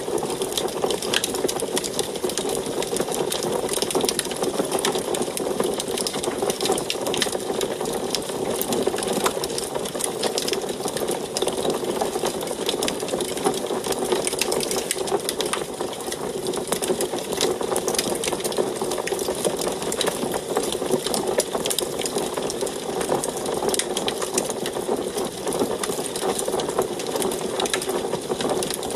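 Wood fire burning in an antique wood stove, with many small irregular crackles and pops over a steady rushing sound.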